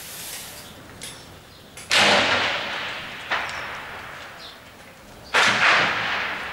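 Gunfire: two loud shots about three and a half seconds apart, each trailing off in a long echo, with a fainter crack between them.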